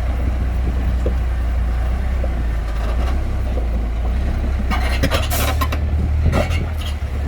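Heavy earthmoving machine's engine running with a steady low drone. Bursts of scraping and rattling come about five seconds in and again near the end.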